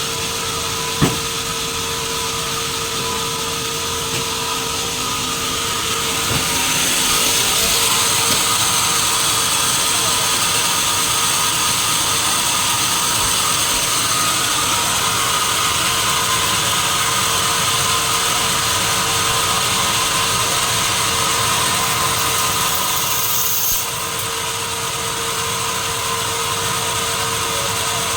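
Sawmill saw running steadily with a constant machine hum. It grows louder and brighter about six seconds in, as when the blade is in the wood, then drops back suddenly a few seconds before the end. A single sharp knock comes about a second in.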